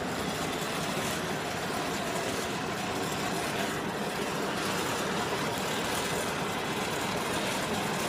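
Blacksmith's forge running with a steady, even rushing noise.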